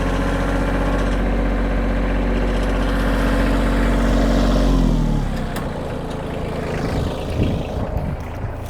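Kioti tractor's diesel engine running steadily under load while pulling a weighted driveway drag. About five seconds in its pitch drops as the engine slows down, and it carries on running more quietly.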